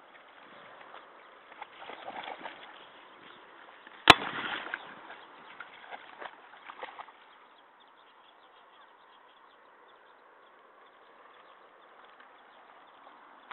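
A dog splashing in water in irregular bursts, with one sharp knock about four seconds in. After about seven seconds it settles to a faint steady wash of water.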